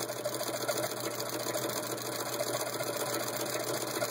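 Antique hand-crank Singer 66 sewing machine cranked at an even pace, driving a Singer ball-bearing pinking attachment through leather: a steady mechanical clatter of about five strokes a second.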